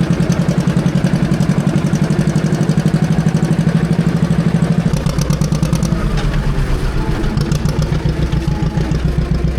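A vintage John Deere tractor engine running with an even, rhythmic pulsing beat. About five seconds in, the sound shifts and a deeper rumble comes in underneath.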